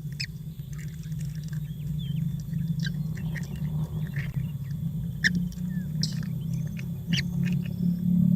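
Newly hatched baby birds chirping, with short high cheeps coming irregularly over a steady low hum.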